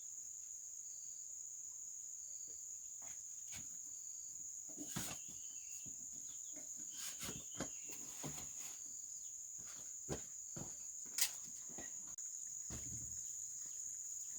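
Insects chirring in one steady, high-pitched drone, with scattered short clicks and knocks over it.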